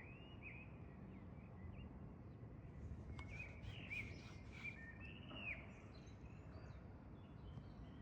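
Faint bird chirps and short calls, scattered and busiest around the middle, over a steady low outdoor background noise.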